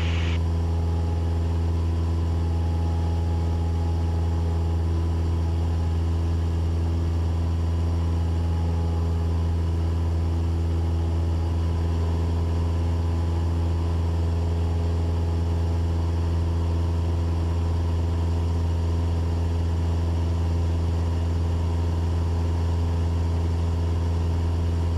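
Cessna 172's four-cylinder piston engine and propeller droning steadily in flight: a constant deep hum with steady overtones and no change in power.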